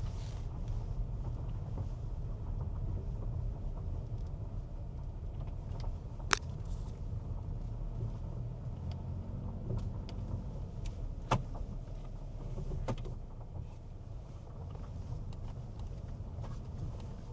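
Steady low road rumble inside a moving car, with a couple of sharp clicks about six and eleven seconds in.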